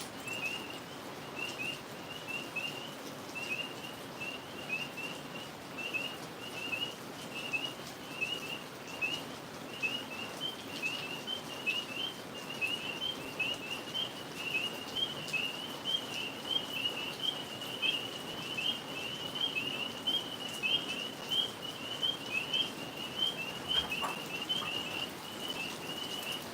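A chorus of tree frogs calling: short high chirps repeated over and over, growing denser and a little louder about halfway through.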